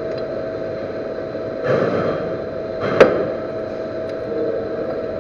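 Metal lathe running with a steady hum, a swell of cutting or rubbing noise about two seconds in, and one sharp metallic clink about three seconds in.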